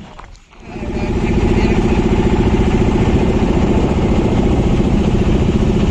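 A boat's engine starts up about half a second in, builds over half a second and then runs loud and steady with a fast, even beat.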